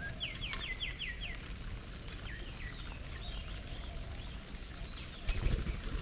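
Garden songbirds calling: a quick run of about six falling chirps in the first second or so, then scattered higher chirps. A brief low thump near the end.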